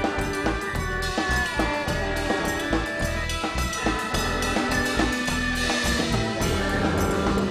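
A band playing an instrumental break: a drum kit keeps a steady beat under long held notes from the other instruments.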